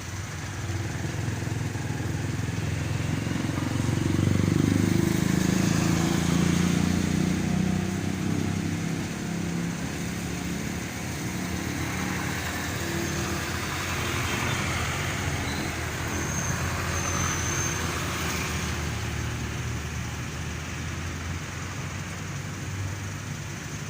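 Motor vehicle engine running amid traffic noise, swelling louder about four to eight seconds in and then settling to a steady hum.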